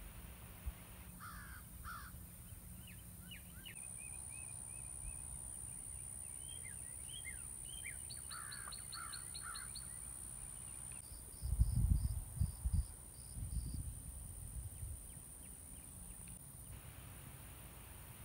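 Birds chirping and calling, with a quick run of high ticks near the middle, over a faint steady high hum. About two-thirds of the way through, a few seconds of low rumbling thumps on the microphone are the loudest sound.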